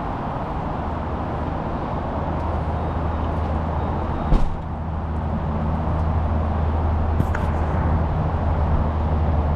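A motor vehicle running steadily with road noise, its low hum growing stronger in the second half, with a single sharp knock a little after four seconds in.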